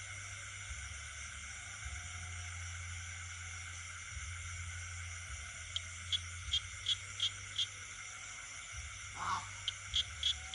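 Night chorus of insects and frogs: a steady high, many-layered trill throughout. About halfway, one caller adds a run of six short chirps at about three a second. Near the end come a brief falling call and a quicker run of chirps.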